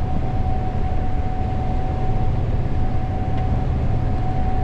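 Gleaner S98 combine running steadily while harvesting corn: a constant low drone with a thin whine held on one pitch above it.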